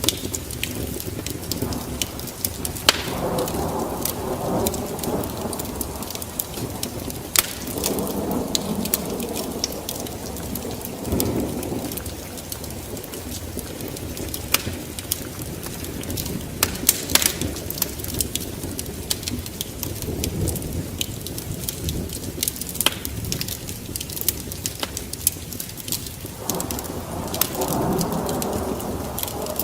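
A wood fire crackling with frequent sharp pops over steady rain. Several slow rumbling swells of distant thunder come and go, one near the start, one about a third of the way in, one around the middle and one near the end.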